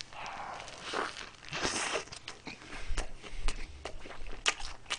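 A man biting into a McDonald's burger and chewing with his mouth open, close to the microphone, with many small wet clicks and smacks.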